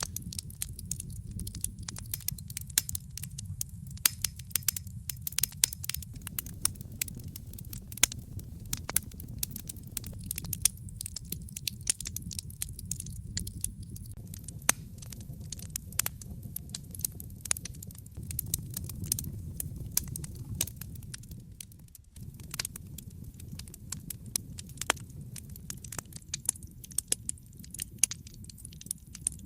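Wood fire crackling and popping in a fireplace: dense, irregular snaps over a steady low rumble of the flames, with a brief dip about two-thirds of the way through.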